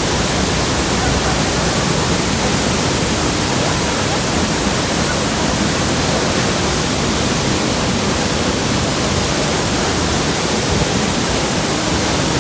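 Niagara Falls' water crashing down close by: a loud, steady, unbroken rush of falling water.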